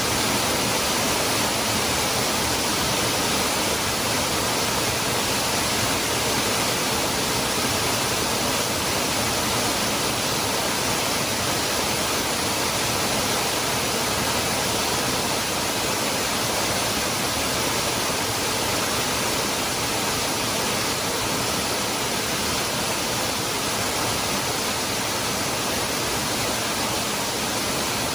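Cascada del Hervidero waterfall rushing steadily: a dense, even hiss of falling water with no breaks or changes.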